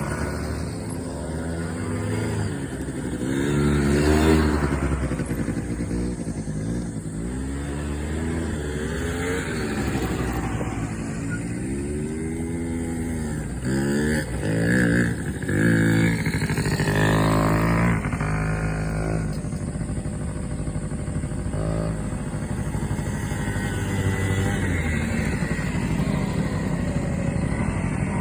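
Off-road buggy engine running under a varying throttle, revving up and falling back again and again, its pitch rising and dropping with each rev. The loudest revs come about four seconds in and between about fourteen and seventeen seconds.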